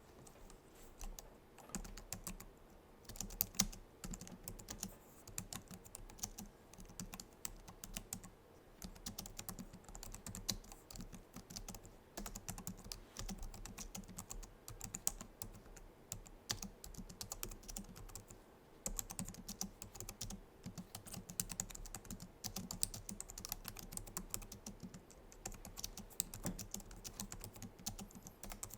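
Continuous typing on a Logitech MX Keys keyboard: a steady run of soft key presses, several a second, with brief pauses.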